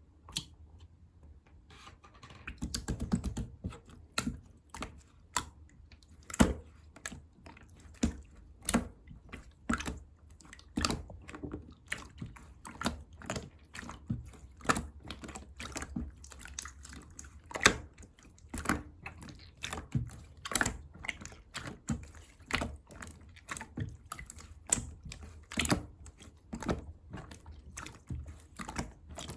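Typing on a computer keyboard: irregular key clicks, a few a second, some strikes louder than others.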